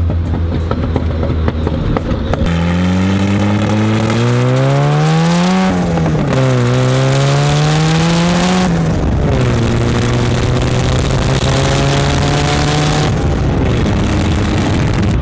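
Turbocharged Datsun 240Z engine and exhaust running under way. It cruises steadily at first, then accelerates from about two and a half seconds in, rising in pitch through two gears with a drop at each upshift. It then settles into a steady cruise with wind rushing past.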